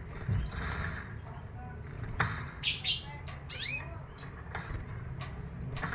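Canary chirping: a burst of quick, sweeping calls in the middle, with a few sharp clicks scattered around it.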